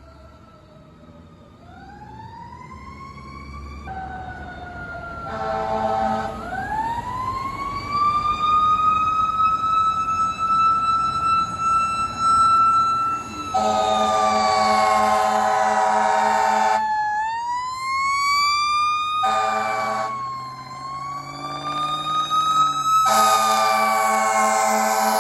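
Fire engine's mechanical Q siren winding up to a long high whine and coasting down, rising and falling several times. Blasts of its air horn cut in over it: a short one about five seconds in, a longer one of about three seconds in the middle, another short one, and a long one near the end. It grows louder over the first several seconds as the truck approaches.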